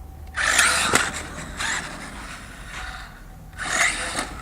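Battery-powered RC truck given bursts of throttle, its tyres scrabbling and scraping on pavement in two loud spurts, with a sharp knock about a second in.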